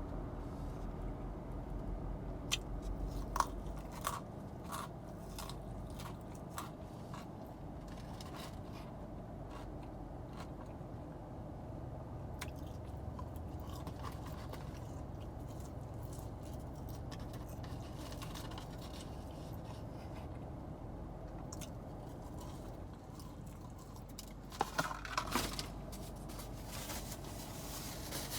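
Close-miked chewing and crunching of fast food, a scatter of small mouth clicks and bites over a steady low background hum, with a brief cluster of louder clicks near the end.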